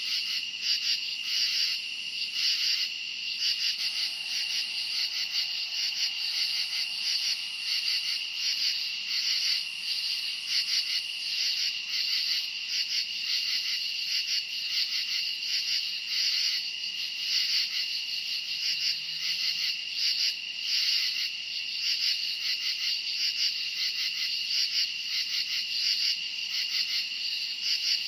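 A dense chorus of crickets chirping in a fast, steady pulse. It runs on without a break, with a high trill sitting over it.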